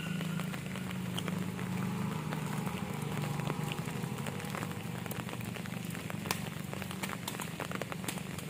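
Rain falling steadily, with scattered sharp clicks of drops hitting nearby surfaces and a low steady hum underneath.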